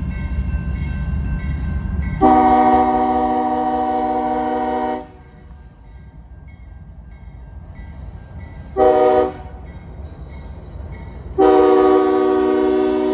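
Locomotive air horn sounding several tones at once: a long blast, a short blast, then another long blast, over the low rumble of the locomotive.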